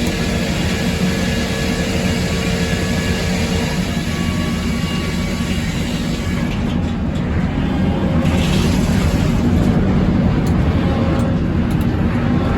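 Circular sawmill running steadily, its inserted-tooth head saw sawing 5/4 red oak boards from a log, with a deep, constant motor drone under the blade noise.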